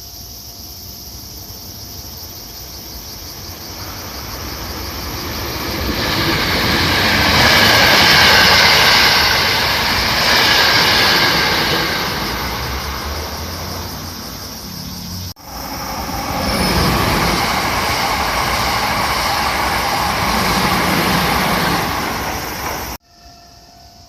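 A train approaching and running past, with the noise building over the first several seconds. It breaks off abruptly about two-thirds of the way through, comes back loud, and cuts off sharply near the end.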